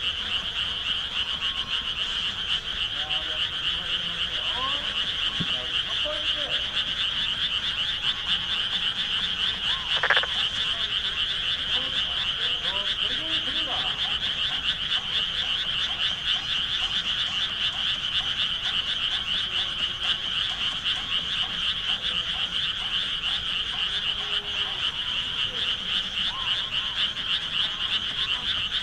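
Dense chorus of many frogs calling together: a continuous, rapidly pulsing high din. A single short knock about ten seconds in.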